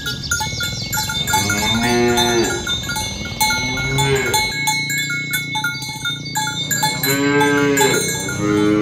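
Cattle mooing: about four long, drawn-out moos from several cows, rising and falling in pitch and partly overlapping. Short, repeated bell-like notes ring behind them.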